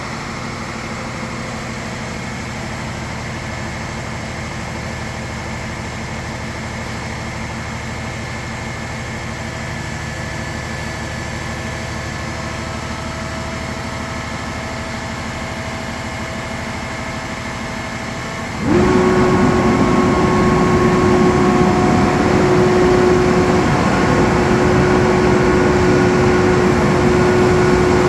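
Crane truck engine running steadily, then about two-thirds of the way in it speeds up and runs louder with a steady whine as the crane lifts the air conditioning unit.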